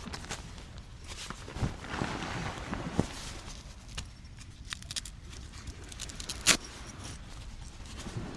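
Irregular clicks and knocks over a steady low background hiss, with one sharp, loud knock about six and a half seconds in.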